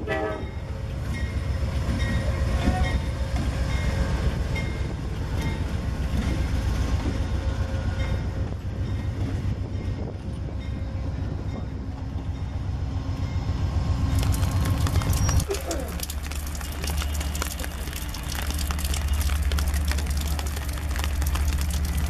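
Amtrak GE Genesis diesel locomotive and its stainless Amfleet coaches rolling past, with a continuous rumble and the clatter of wheels over rail joints. About two thirds of the way in this gives way to a steadier low rumble from an approaching CSX diesel freight locomotive.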